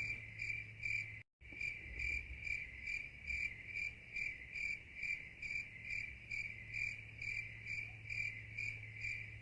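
Night-time cricket chirping, a steady, even run of short high chirps about two to three a second over a faint low hum. The sound cuts out completely for a moment about a second in, then carries on.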